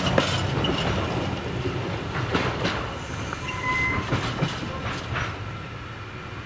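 Freight train of container flat wagons rolling away, wheels knocking over the rail joints in irregular clacks, the rumble fading steadily as the train recedes.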